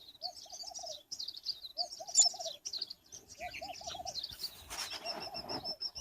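Wild birds calling: a low hooting phrase of four or five quick notes repeated about every one and a half seconds, over steady high-pitched chirping. A short rustle about three quarters of the way through.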